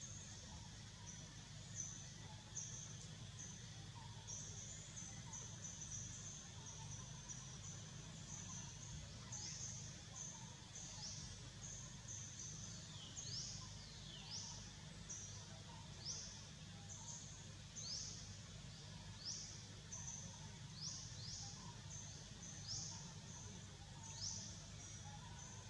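Faint forest ambience: a bird giving short, high-pitched downward chirps, about one a second, over a steady high-pitched hiss and a low hum. A couple of the chirps, about halfway through, sweep down further than the rest.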